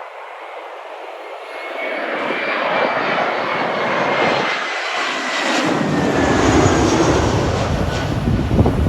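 Jet airliner's engines passing, growing louder, with a thin whine that slowly falls in pitch and a deep rumble building over the last few seconds.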